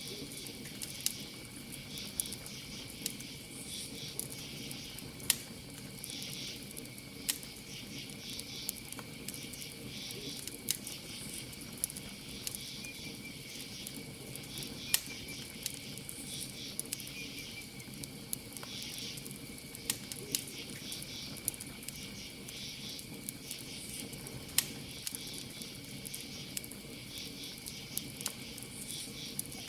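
Campfire crackling, with sharp pops of burning wood every second or so, over a steady high insect trill and rhythmic chirping of crickets.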